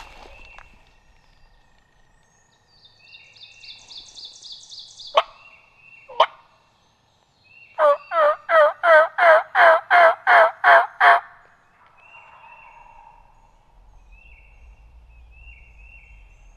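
Wild turkey yelping: a run of about a dozen quick yelps, each dropping in pitch, a little past the middle, after two sharp single calls a few seconds earlier.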